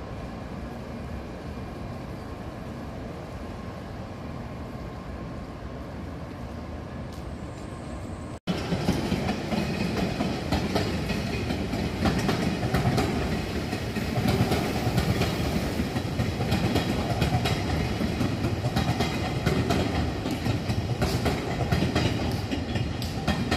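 A steady distant rail-yard rumble, then a sudden change about eight seconds in to a multi-car electric commuter train passing close by. Its wheels clatter over the rail joints in a quick run of clicks over a louder running rumble.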